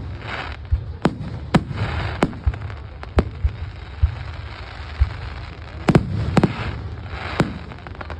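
Fireworks display: about seven sharp bangs of shells bursting, in two clusters with a gap in the middle, some followed by a crackling hiss, over a steady low rumble.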